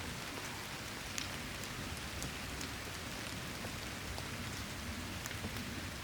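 Steady rain falling, with scattered sharp taps of individual drops hitting close by.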